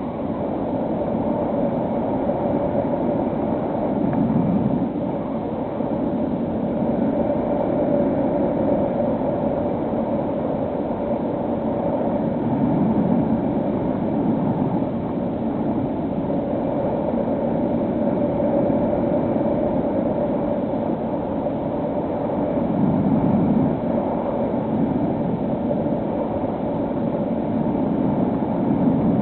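The electric motor and propeller of a HobbyKing SkyEye FPV plane running steadily, a hum at one pitch over rushing air noise that swells and eases every few seconds.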